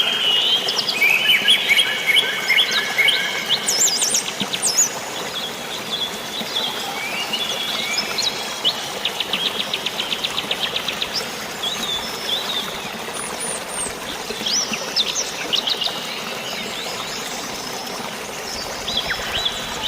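Several birds chirping and whistling over a steady hiss of falling water from rain and a waterfall. About nine seconds in, one bird gives a fast trill of even notes, about eight a second, lasting a couple of seconds.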